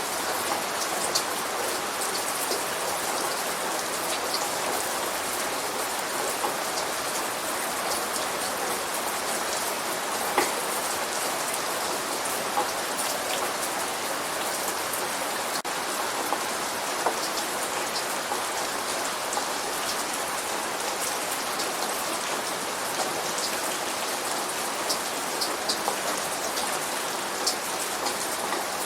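Light rain falling steadily: an even hiss with scattered individual drops ticking sharply on a surface, one a little louder about ten seconds in.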